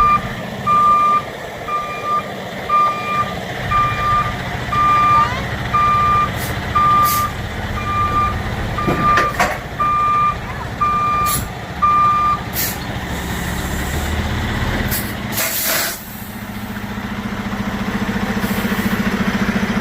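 Vehicle reversing alarm beeping steadily about once a second, stopping about twelve seconds in, over a running truck engine. A short loud hiss of air from the truck's air brakes comes about fifteen seconds in, then the diesel engine keeps running.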